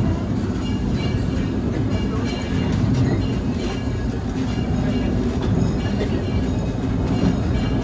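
Disneyland Railroad steam train running along the track, heard from an open passenger car: a steady low rumble with scattered light clicks.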